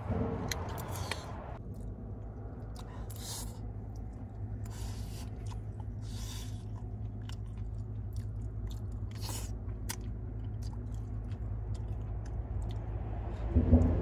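A person chewing and eating close to the microphone, with scattered small clicks and crunches, over a steady low hum.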